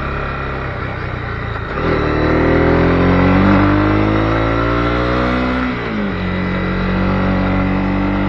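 Honda CB250R's single-cylinder engine under way: the note eases off about two seconds in, climbs steadily in pitch as the bike accelerates, drops suddenly at an upshift near six seconds, then holds steady.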